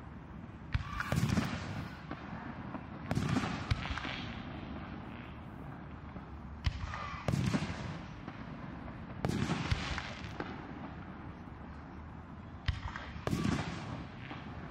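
Aerial firework shells bursting, about five or six booms a few seconds apart, each a sharp bang followed by a rumbling echo.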